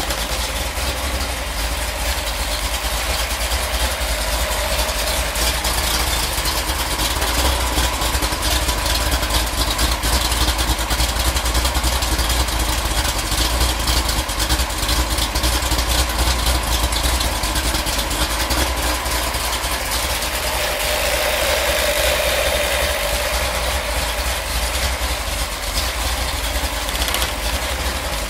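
Freshly built Ford 428 FE V8 idling steadily, still warming up from a cold start.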